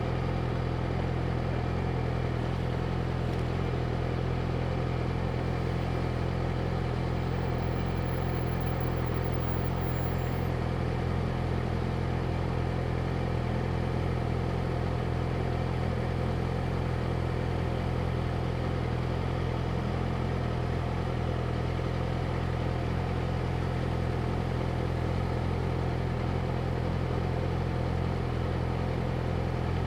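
Yamaha YZF-R6's 600 cc inline-four engine idling steadily, its low even note holding at one pitch without any revving.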